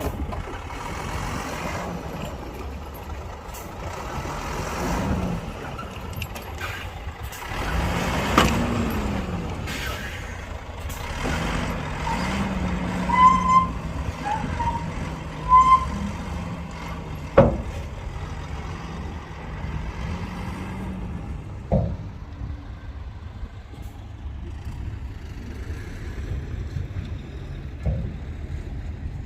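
Heavy diesel engines of dump trucks and earthmoving machines running, revving up and down several times. In the middle come a few short high beeps, and later a few sharp knocks.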